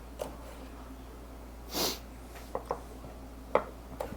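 Kitchen knife tapping on a cutting board while trimming the ends off string beans: a handful of sharp knocks, two in quick succession about two and a half seconds in. A short breathy hiss, like a sniff, comes near two seconds.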